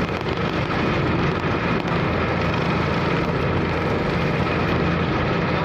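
Car ferry's engines running steadily, a constant low hum under a broad rush of wind and waves.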